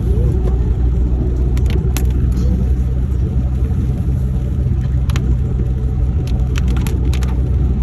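Steady low engine and road rumble of a moving vehicle, with a few scattered sharp clicks or ticks.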